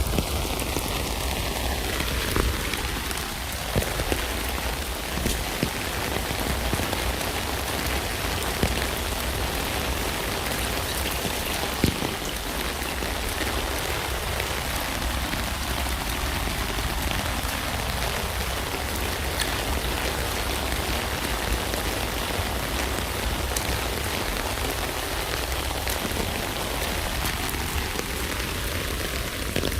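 Steady rain falling on a tent, an even hiss with occasional louder single drops ticking on the fabric.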